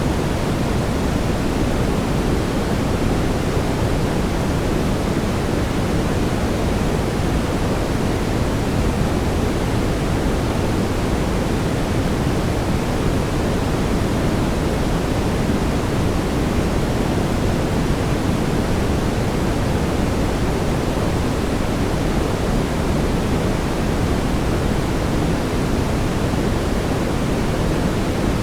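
Steady brown noise, a deep, even hiss with most of its energy in the low end, unchanging throughout.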